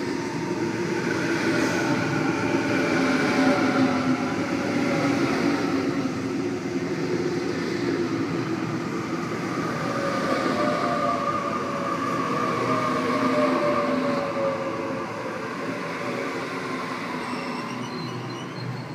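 Sydney Trains Waratah (A set) electric train pulling into the platform. Its traction motors whine in several tones that fall slowly in pitch as it slows to a stop, over a steady rumble of the wheels on the rails.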